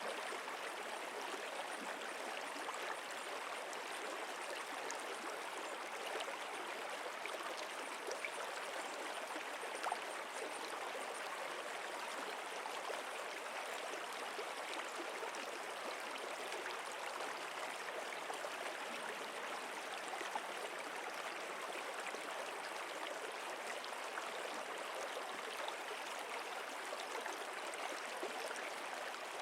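Stream water flowing steadily, an even rush of running water with small splashes.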